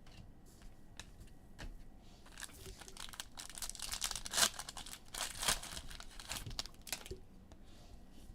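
Foil trading-card pack wrapper being torn open and crinkled. A few light clicks come first, then about five seconds of crackly tearing and crinkling that is loudest in the middle.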